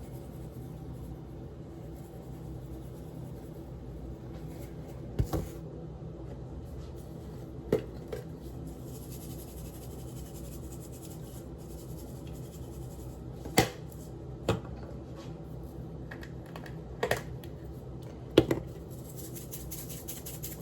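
Occasional sharp clicks and knocks of spice shakers and containers being handled, about six spread across the stretch, over a steady low hum.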